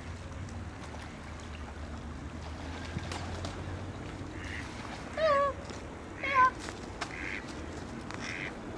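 Two short calls from a bird, about a second apart, each loud and falling in pitch, over steady outdoor background noise.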